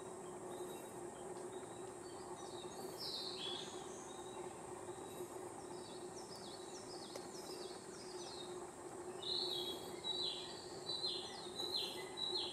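Wild bird song: runs of short, falling whistled notes repeated several times in a row, loudest in the last few seconds, over a steady high insect-like hiss.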